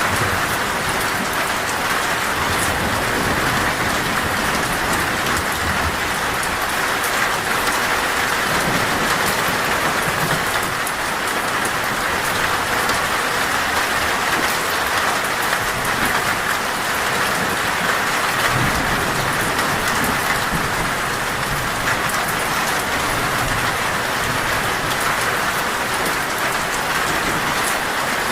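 Heavy rain pouring on a metal roof: a dense, steady drumming patter, with brief low rumbles of thunder now and then.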